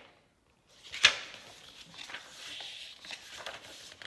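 Paper handling as the pages and inserts of a handmade junk journal are turned and moved: a sharp tap about a second in after a moment of dead silence, then soft rustling of paper with small ticks.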